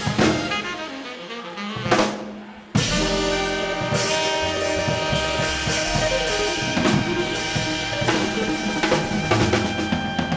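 Live swing band playing an instrumental, with horns and a drum kit. A drum hit comes about two seconds in, the sound briefly drops back, and then the full band comes in abruptly.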